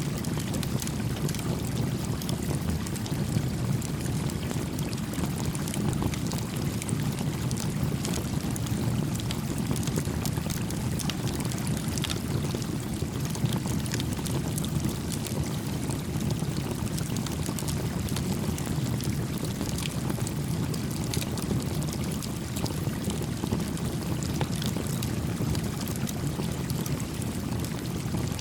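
Small stream flowing with a steady, low rush of water, with a wood campfire crackling in scattered small pops over it.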